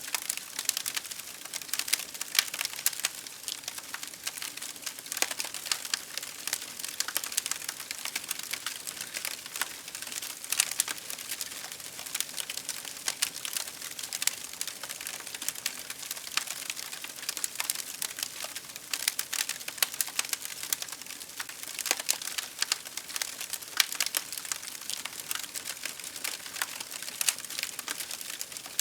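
Wood fire crackling: a steady hiss with dense, irregular snaps and pops, some clusters of louder pops.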